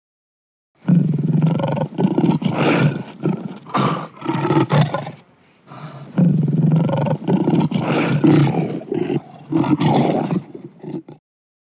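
A big cat roaring and growling in two long, rough, pulsing bouts; the second starts about six seconds in.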